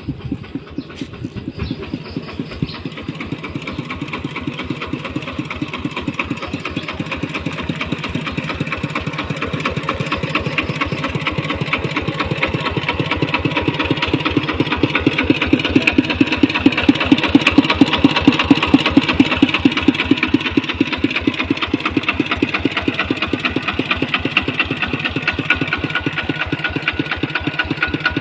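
Kubota ET95 single-cylinder diesel engine of a walking tractor running with a rapid, even beat, growing louder through the first half and easing slightly near the end.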